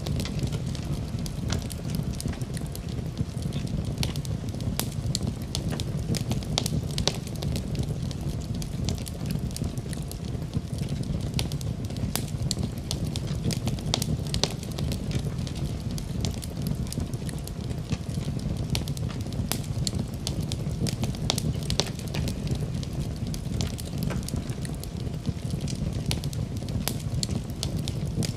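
Wood fire burning in a fireplace: a steady low rumble of flames with many small sharp crackles and pops throughout.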